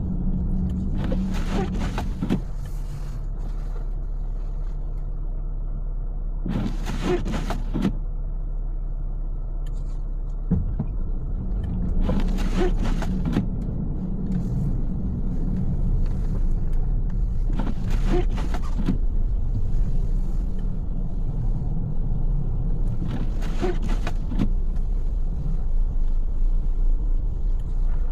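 Steady road and engine rumble inside a moving car's cabin. About every five and a half seconds there is a short swish that is typical of windshield wipers on an intermittent setting clearing snow.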